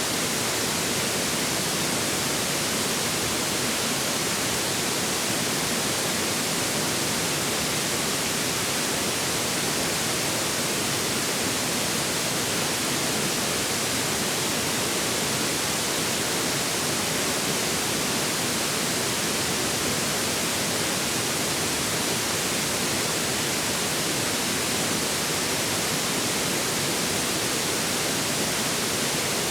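River water flowing steadily through a forest: an even, unbroken rushing hiss, bright and hissy in character, with no changes.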